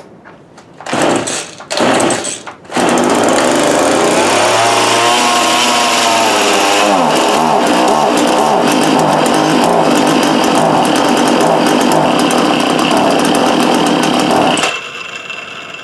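Small two-stroke JCB chainsaw engine being pull-started: it fires briefly twice, then catches and runs loudly for about twelve seconds, the revs rising and falling once early on, before dropping to a much lower level near the end. It is running on a little fuel put on the air filter: ignition is good, and the fault lies in the fuel supply.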